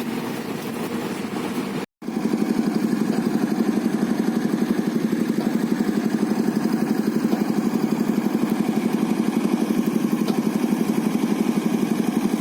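An engine running steadily. The sound cuts out for a split second about two seconds in, then resumes with an even, rapid pulsing beat.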